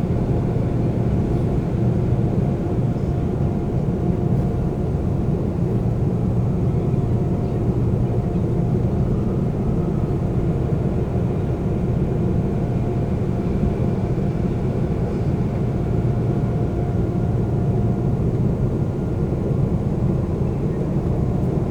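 Seoul subway train running, a steady low rumble with a faint whine that fades near the end.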